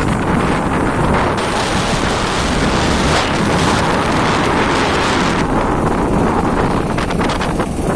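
Wind buffeting the microphone of a moving off-road motorbike, with the ride's running noise underneath; the hiss turns brighter for a few seconds in the middle.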